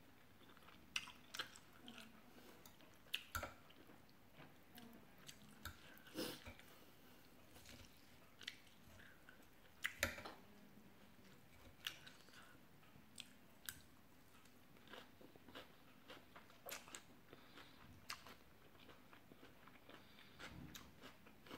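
Quiet, close-up eating sounds: a person chewing a mouthful of Thai rice noodles (khanom jeen) and fresh vegetables, with many short, sharp mouth clicks and smacks at irregular times.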